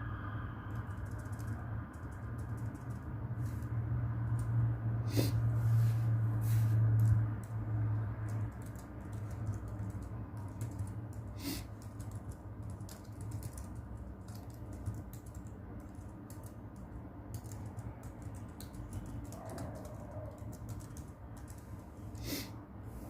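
Computer keyboard typing: irregular clicking keystrokes over a steady low brown-noise rumble, which swells between about four and eight seconds in.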